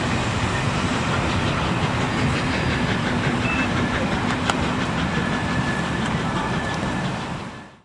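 A train rolling past on the rails, a steady rumble and rush with faint clicks of wheels over the rail joints, fading out near the end.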